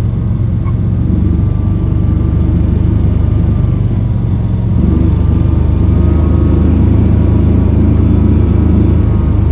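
Tractor engine running steadily under way; its note changes and it grows a little louder about five seconds in.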